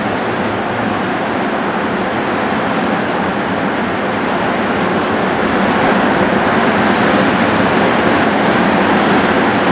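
Heavy rain pouring down steadily in a thunderstorm downpour, growing a little louder about six seconds in.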